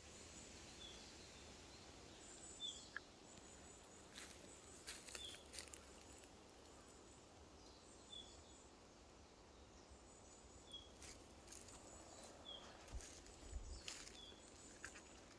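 Faint forest ambience: a small bird giving short, high single chirps every couple of seconds, with scattered light clicks and rustles.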